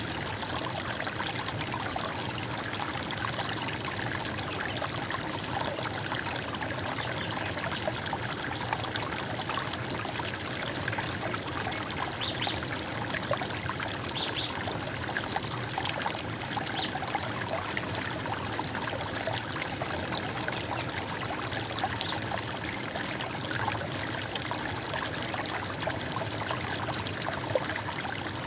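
Running water: a stream flowing and trickling steadily.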